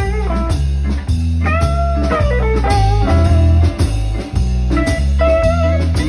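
Blues band playing an instrumental passage: a lead guitar plays bent single notes over bass and drums.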